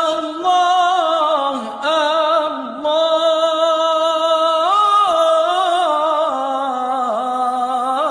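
A solo voice chanting a long melodic line, holding notes and ornamenting them with small turns and bends.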